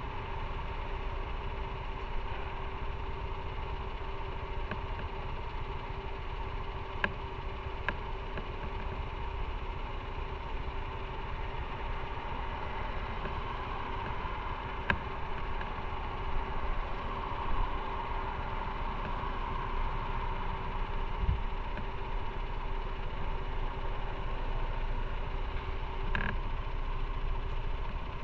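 Motorcycle engine running steadily, with a constant hum and low rumble and a few brief clicks.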